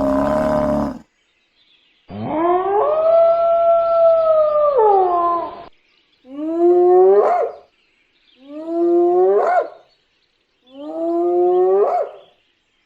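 An animal calling: a dense, low sound that cuts off about a second in, then after a pause one long call that rises, holds and falls in pitch, followed by three shorter calls, each rising sharply at its end.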